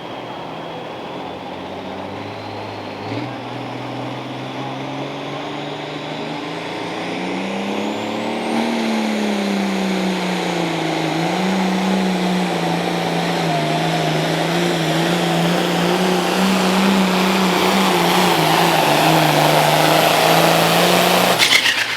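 Diesel pulling tractor under full load making a pull, its engine note rising and dipping as it works and growing louder as it comes on, then cutting off abruptly near the end.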